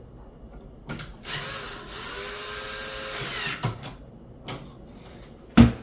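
Cordless drill-driver running for about two seconds, unscrewing the ground wire's screw, with a few small clicks around it. A sharp knock comes near the end.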